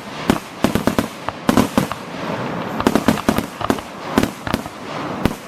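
Fireworks and firecrackers going off: a rapid, irregular string of sharp pops and bangs.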